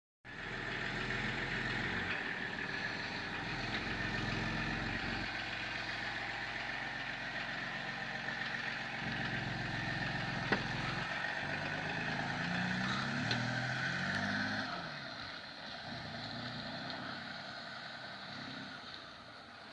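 Motor vehicle engine running on a test drive after repair, its pitch climbing in short steps around twelve to fourteen seconds in, then getting a little quieter. A single sharp click about ten seconds in.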